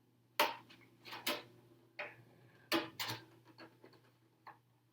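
Handling clicks and taps as trim decals are pressed onto an RC truck's body shell: about five sharp ticks over the first three seconds, with fainter ones between.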